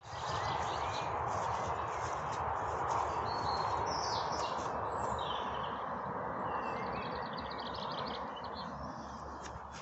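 Songbirds chirping, with a fast trill a little past the middle, over a steady rushing noise that eases slightly near the end.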